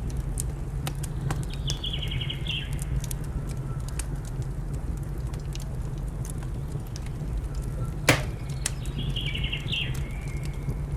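A wood fire crackling with scattered pops, one sharp crack about eight seconds in, over a steady low rumble. A small bird gives the same short, high trilling call twice, about seven seconds apart.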